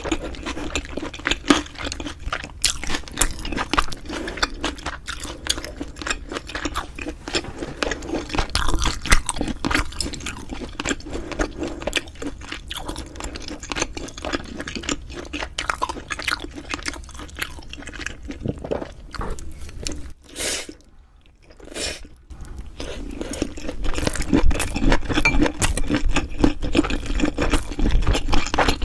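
Close-miked chewing of a meal of beef rib meat and bibim-myeon noodles: steady wet chewing with crisp crunches and mouth clicks. The chewing stops briefly about two-thirds of the way through, then resumes.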